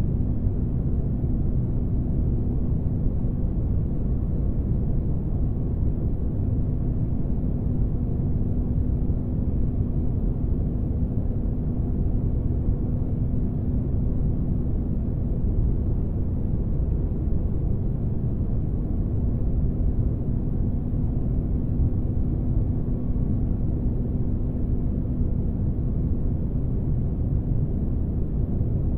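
Synthetic spaceship-interior ambience: a steady deep rumbling noise with a low steady hum, used as sleep white noise.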